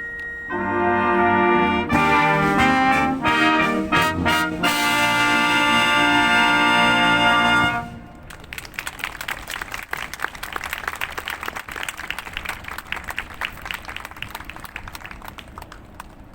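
Police wind band with trumpets and trombones playing the closing bars of a piece, ending on a loud held chord about halfway through. Audience applause follows.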